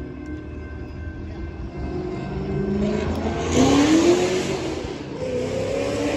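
A car engine accelerating hard, its note rising, loudest about four seconds in, then climbing again in the next gear near the end.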